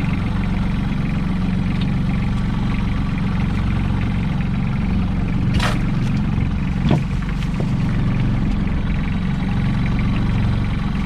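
Small fishing boat's engine running steadily, with two brief knocks a little past the middle.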